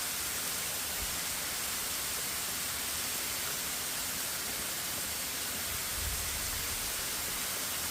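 Steady, even hiss with no breaks, strongest in the high treble, and two soft low thumps: one about a second in and one around six seconds in.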